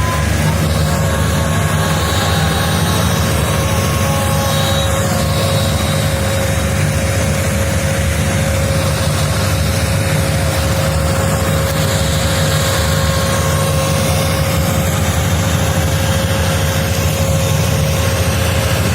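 Preet 6049 tractor's diesel engine running steadily at an even speed, with a thin steady whine above the engine note.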